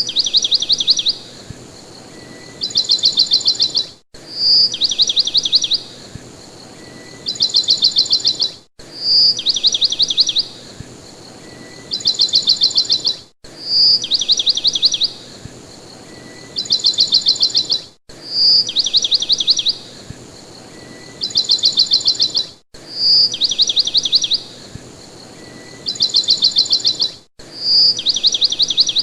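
Bird song played as a loop: a short high whistle followed by fast trills, the same phrase repeating identically about every four and a half seconds, with a brief dropout at each join.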